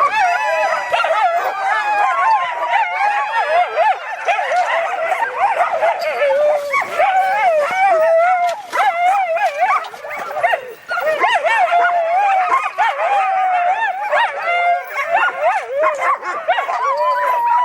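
Many sled dogs howling, yipping and barking together in one overlapping chorus of rising and falling howls that never lets up: a sled dog team excited at feeding time.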